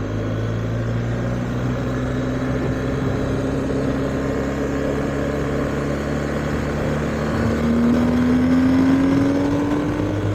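BMW R1250GS boxer-twin engine running at a steady pitch while riding, heard through a helmet-mounted mic with road and wind noise. About three-quarters of the way through, the engine pitch and loudness rise steadily as the bike accelerates.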